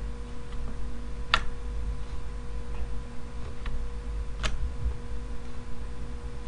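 Sparse computer mouse clicks, two clear ones about three seconds apart with a couple of fainter ones between, over a steady low electrical hum.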